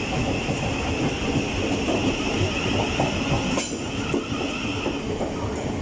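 Thameslink Class 700 electric train moving at the platform: the wheels rumble on the track under a steady high-pitched tone that drops away about three and a half seconds in.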